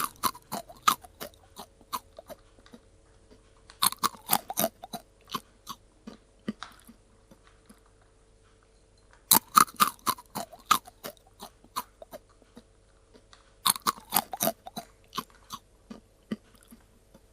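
A cat crunching dry kibble: bouts of rapid, sharp crunches every four to five seconds, each trailing off into slower, softer chewing.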